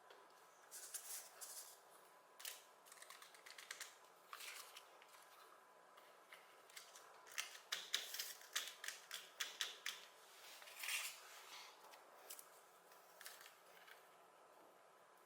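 Faint, irregular small plastic clicks and taps from a mechanical keyboard being worked on by hand, coming in quick clusters that are busiest around the middle.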